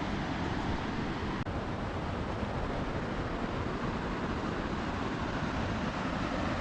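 Steady rush of river water, a continuous even noise with no rise or fall, with a single small tick about a second and a half in.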